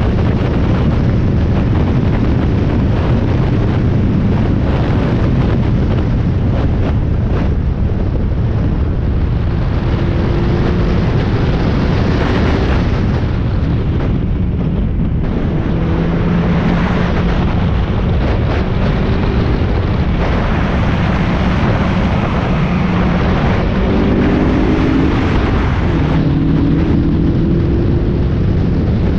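Spec Miata's four-cylinder race engine running hard on track, heard from an onboard camera under heavy wind buffeting; the engine note climbs and drops repeatedly through gear changes.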